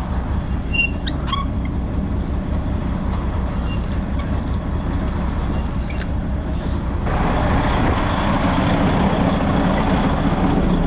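Semi truck's diesel engine running at idle with a steady low rumble, with a few light clicks about a second in; about seven seconds in, a steady hiss of air starts and continues.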